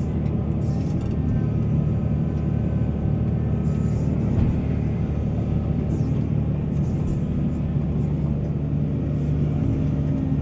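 Heavy diesel engine of mining earth-moving machinery running steadily, a low even drone with no break.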